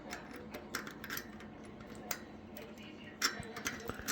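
Light metallic clicks and taps, about seven of them spread unevenly, from small steel axle parts (bearings, spacers, sprocket carrier) being handled and fitted onto a 12 mm pit bike axle.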